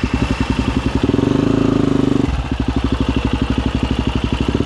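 Husqvarna FE250 single-cylinder four-stroke dirt-bike engine idling with an even pulsing beat, raised by a throttle blip for about a second soon after the start and again near the end.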